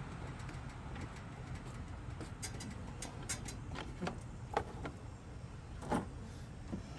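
Scattered sharp clicks and light knocks of hands working on a lawn mower's fuel line and filter, over a low steady rumble; the sharpest clicks come about four and a half and six seconds in.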